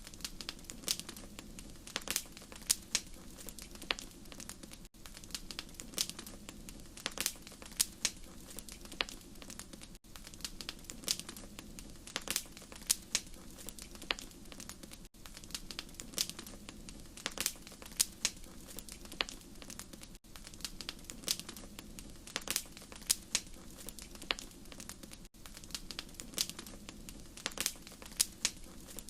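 Wood fire crackling: frequent sharp pops and snaps over a steady low rumble of the burning fire. There is a brief dip in the sound about every five seconds.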